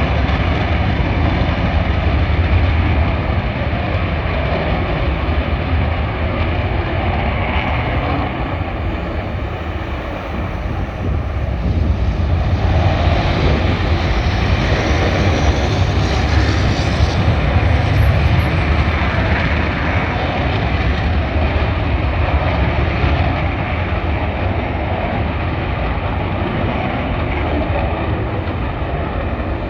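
McDonnell Douglas F-15C Eagle fighter jets taking off, their twin Pratt & Whitney F100 turbofan engines making a continuous loud roar with a deep rumble. The roar eases slightly, then swells again about halfway through.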